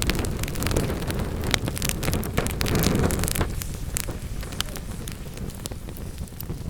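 Wood fire crackling, with many sharp pops and snaps over a low, rushing rumble of flame that eases off after about three and a half seconds.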